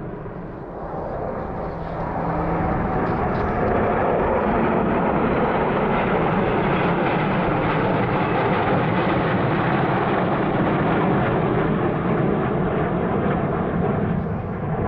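F-86 Sabre jet flying past with its jet engine running. The noise builds over the first few seconds, holds loud and steady, and eases slightly near the end.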